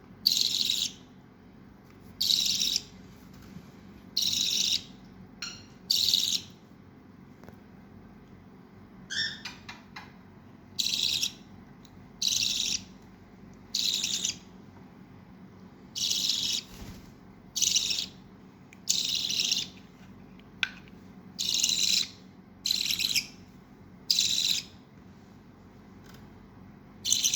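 Baby budgerigar giving harsh, hissy calls, one every second and a half to two seconds, with a brief higher chirp about nine seconds in.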